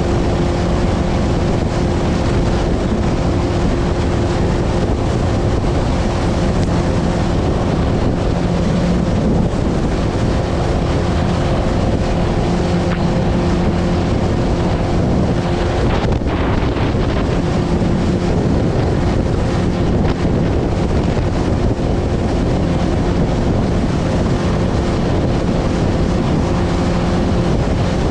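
Motorboat engine running at a steady speed, its hum nearly drowned by strong wind buffeting the microphone, on a choppy ride.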